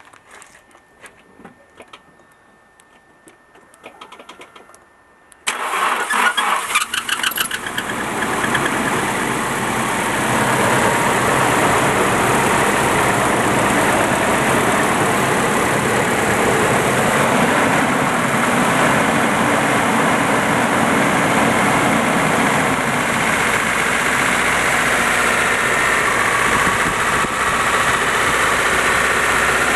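A Nissan 200SX engine is cranked by the starter about five seconds in, catches and settles into a steady idle. The owner suspects the knock in this engine comes from the VVT, the cams or the oil spray bar.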